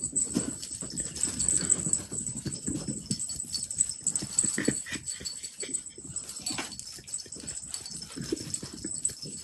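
A dog making a string of short, irregular vocal sounds.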